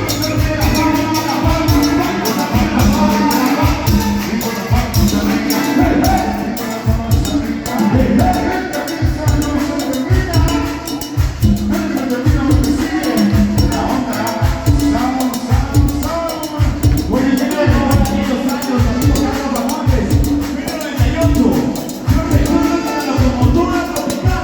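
A live Latin dance band playing, with a steady, evenly spaced bass and drum beat under melodic lines.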